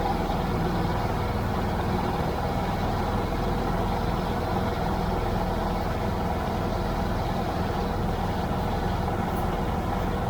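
Tractor engine running at a steady speed, an even low drone.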